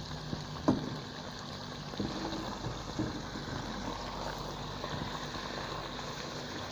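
Chicken with onion, garlic and ginger cooking in a pot with a steady sizzle while it is stirred, and a few short spoon knocks against the pot.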